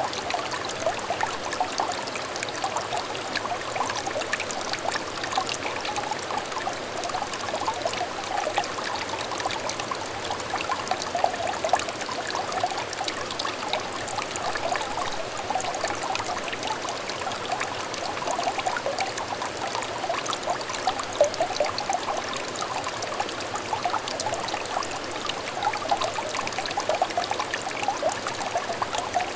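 Small brook trickling and babbling over stones, a continuous light burble of bubbling, splashing water.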